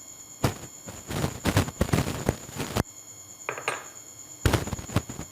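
Spoon clinking and knocking against a bowl as fruit cocktail is added to the cream mixture: a quick run of taps for the first few seconds, then a couple of separate knocks near the end.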